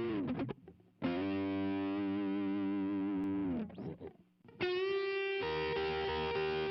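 Instrumental intro of a rock ballad: long held chords on a distorted electric guitar, with a slow vibrato. The chords break off briefly twice, and a new chord swells in about four and a half seconds in.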